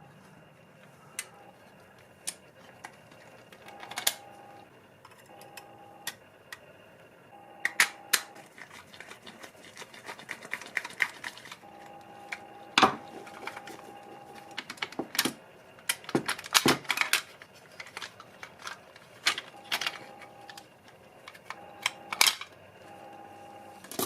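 Sharp clicks and taps of small parts of a diecast model car being handled and worked on, irregular and sometimes in quick runs, over a faint hum that comes and goes.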